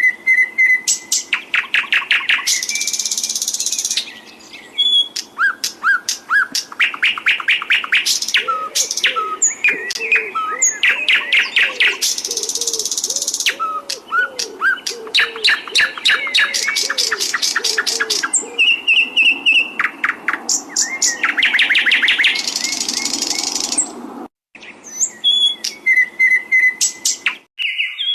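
Songbird singing a long, continuous song of rapid repeated-note trills, buzzy rattles and short whistled notes, breaking off briefly near the end.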